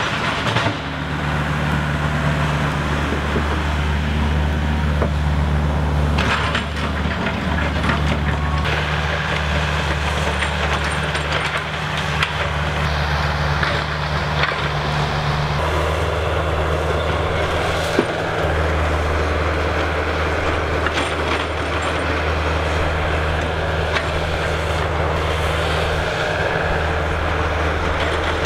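Diesel engine of a track hoe excavator running steadily under load as it pulls small trees out, its note shifting a few times as the load changes. A few sharp cracks of wood, the loudest about 18 seconds in.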